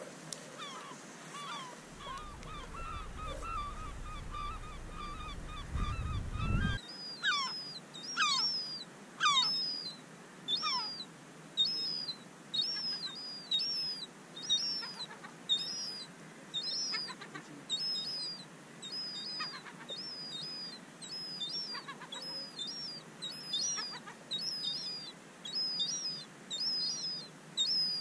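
Birds calling outdoors. For the first few seconds a wavering call holds one pitch. Then a short, high call repeats about once a second, with a few calls that sweep downward in pitch early in that stretch. A low rumble sits underneath for the first several seconds.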